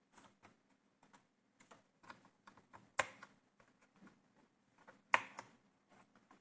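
Small clicks and taps of hands working on an opened laptop's parts, with two sharper, louder clicks about three seconds and five seconds in.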